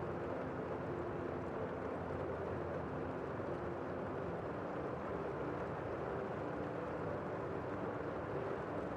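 Steady rain falling outside a window, heard from inside a room: a dense, even, muffled hiss with little high end.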